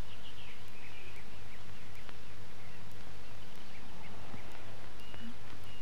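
Birds chirping in short calls, busiest at first and scattered later, with two short whistled notes near the end, over a steady low hum.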